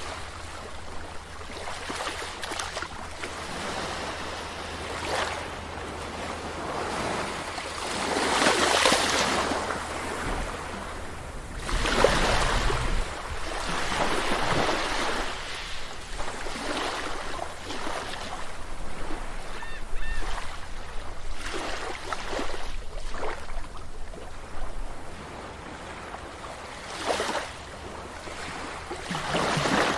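Sea waves breaking and washing up a beach, with the surf swelling and falling away in waves every few seconds, the loudest surges about a third of the way in and near the end. Two short faint gull calls come about two-thirds through.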